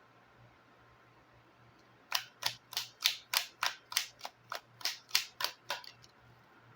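A deck of tarot cards shuffled by hand: a quick, even run of about fourteen crisp snaps, roughly four a second, starting about two seconds in and stopping shortly before the end.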